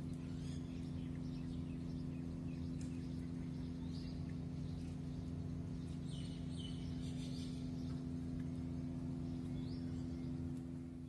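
Small birds chirping now and then, in short high calls, over a steady low hum.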